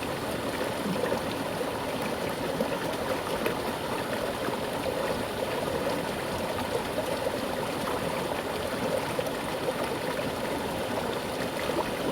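Mountain river flowing with a strong current: a steady rushing and babbling of water over rocks, with small splashes.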